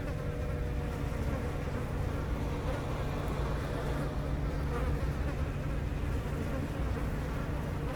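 A swarm of honeybees clustered in a tree, buzzing steadily at close range with many wings beating at once.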